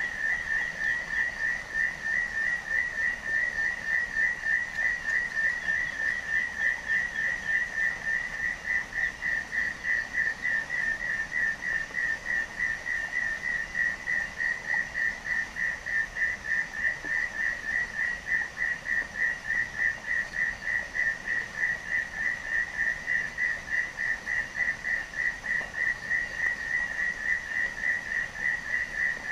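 A single animal call, a high trilling note that pulses fast and evenly without a break.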